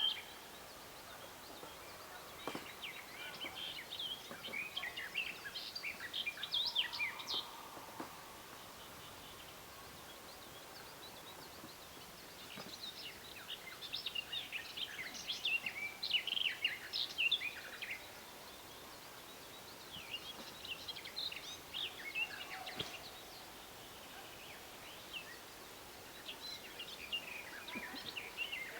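A songbird singing in phrases of rapid high chirps and trills, four phrases separated by pauses of a few seconds, over a faint steady outdoor background.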